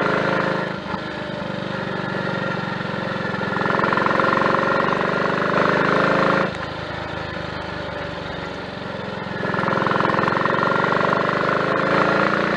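Triumph Tiger Cub's single-cylinder four-stroke engine running on the road. The throttle is eased off about a second in and again about halfway through, and opened back up a few seconds later each time. It pulls without misfiring on new carburettor parts: slide, needle, needle jet and main jet.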